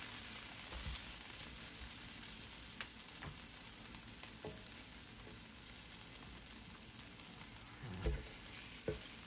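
Marinade vegetables and seasoning sizzling in an electric skillet while a wooden spatula stirs them, with a few light scrapes and taps. The sizzle is steady and grows slightly quieter, and a couple of soft knocks come near the end.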